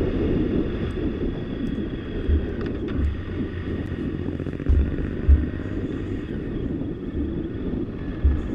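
Police motorcycle ridden at speed, recorded from a camera on the bike: a steady engine and wind rumble, broken by a few short low thumps of wind buffeting the microphone.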